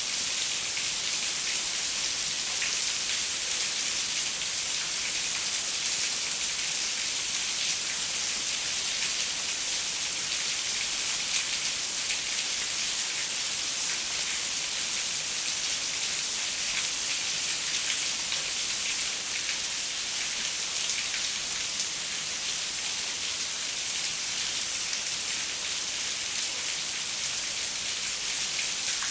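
Steady rain falling, an even hiss of many drops with fine scattered ticks of individual drops striking a surface.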